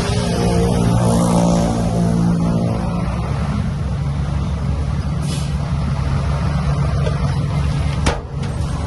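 Heavy diesel engine of earth-moving machinery working under load, its engine note strong for the first few seconds before settling to a steadier run. A short hiss partway through and a sharp knock near the end.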